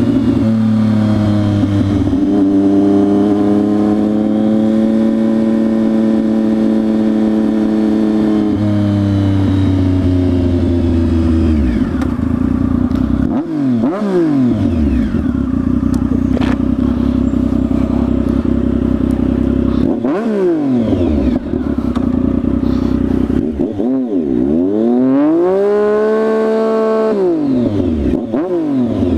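A 2014 Triumph Speed Triple's 1050 cc three-cylinder engine running with its exhaust cans removed, on an open mid-pipe. For the first nine seconds or so it holds a fairly steady note under way, then it drops off. After that it revs up sharply and back down several times, with a longer pull and drop near the end.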